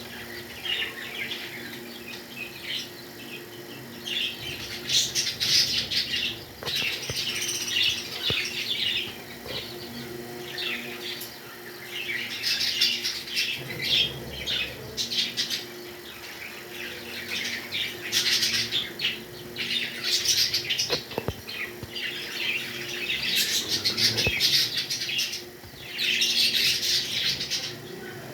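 Pet parrots chattering in repeated bursts of rapid, high-pitched chirps and squawks.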